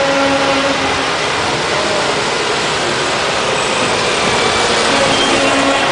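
Engine of a large truck running, with a dense steady noise and a few held tones over it.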